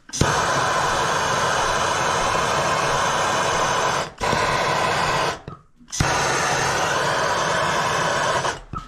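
Steady, loud rushing hiss of a heating tool warming rusted, oil-soaked steam-pipe threads to loosen them. It breaks off abruptly about four seconds in, drops out again for about half a second around five and a half seconds, and resumes.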